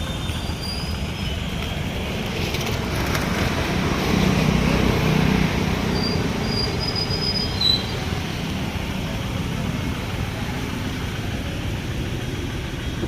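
Hyundai Grand i10 engine running with a knock, louder for a couple of seconds about four seconds in, with a short sharper sound near eight seconds. The knock is the sign of the engine fault that also brings white smoke from the car.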